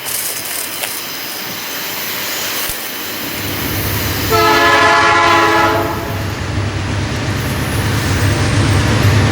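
Diesel freight locomotives sound their horn in one blast of about a second and a half near the middle. Under it the low rumble of the locomotive engines grows louder as the train comes closer.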